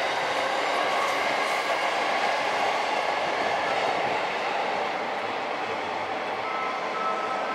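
Electric commuter train running along an elevated viaduct: a steady rumble of wheels on rail that eases off a little over the last couple of seconds. A thin steady high tone comes in near the end.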